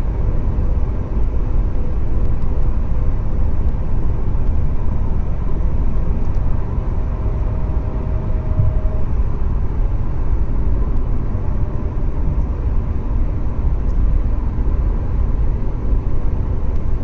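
Holden VZ Commodore SS V8 on its stock cat-back exhaust, a steady low rumble with no revving.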